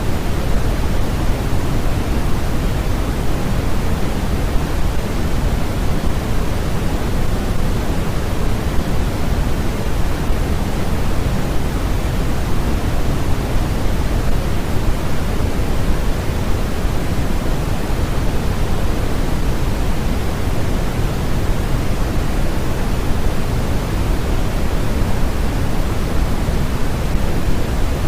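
Steady generated noise for sleep, sold as white noise: an even, unchanging rush that is fullest in the bass and thins out toward the treble.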